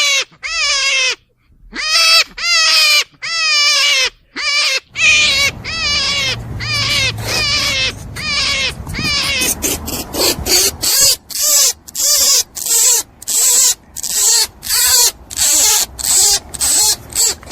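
An animal calling over and over: short, quavering squeals that fall in pitch, spaced at first and then coming about two a second from about five seconds in.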